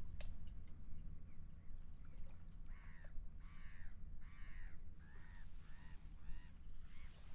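Seagulls calling in a run of repeated, arching cries starting about three seconds in, about two a second, growing fainter toward the end. Underneath is a steady low rumble of wind.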